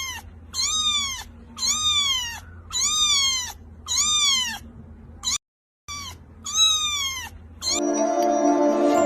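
A domestic cat meowing over and over, about one call a second, each call rising then falling in pitch. There is a brief dead gap a little past halfway, and music comes in near the end.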